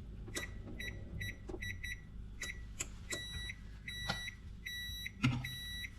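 Electronic beeping from a kitchen appliance: a few short pips, then about halfway a repeating timer alarm of evenly spaced, longer beeps. Scattered knocks and clatter sound in between, the loudest near the end.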